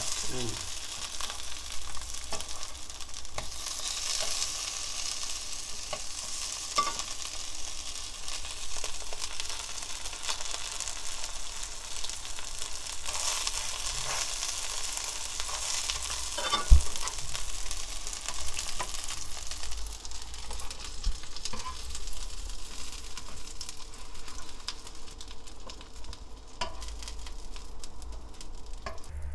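Egg-battered pollock fillets sizzling in hot oil in a frying pan, with scattered clicks of tongs turning them and one sharp knock about two-thirds of the way through. The sizzling dies down near the end.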